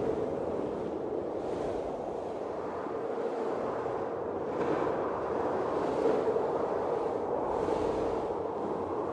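Blizzard wind blowing steadily with a low howl, swelling in gusts every few seconds.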